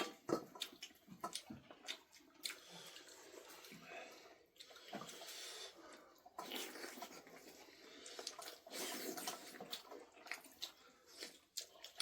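Faint splashing water, broken by scattered small clicks and knocks, with a few louder stretches of splashing.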